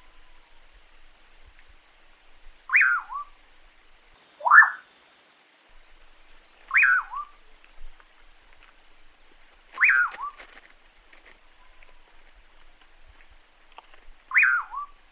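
A bird calling: a loud whistled note that falls sharply and ends in a short hooked tail, given four times a few seconds apart. A single short rising whistle comes in between, about four and a half seconds in.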